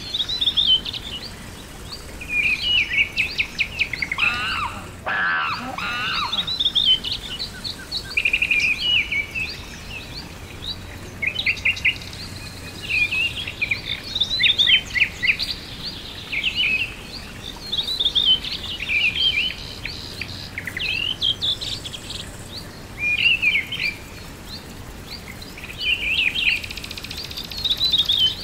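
Songbirds singing, short phrases of high chirps and trills repeating every second or two, over a steady outdoor hiss. A brief dropout about five seconds in.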